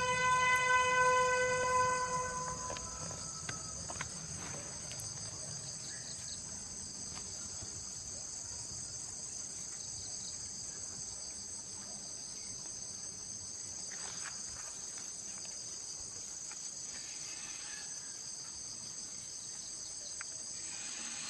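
Steady, high-pitched buzzing of insects such as crickets or cicadas. Over the first couple of seconds a ringing pitched tone fades away.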